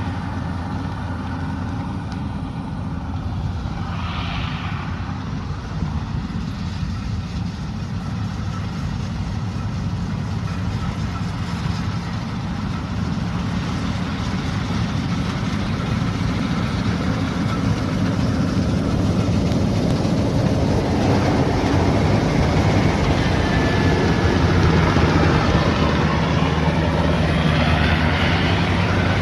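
Combine harvester's diesel engine running steadily with a low hum, the machine noise growing louder and fuller through the second half.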